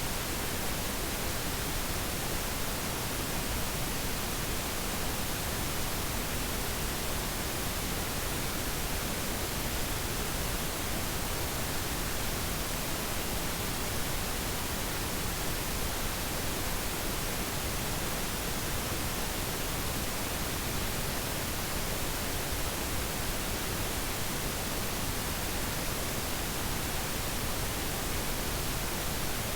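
Steady, unchanging hiss of even noise, like static, with no other sound in it.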